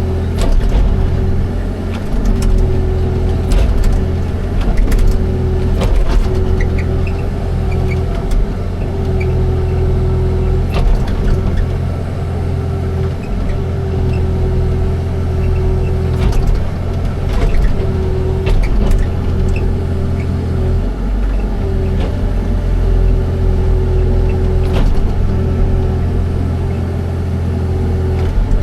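Excavator diesel engine running steadily under load, with a mid-pitched whine that comes and goes and scattered sharp knocks and clanks.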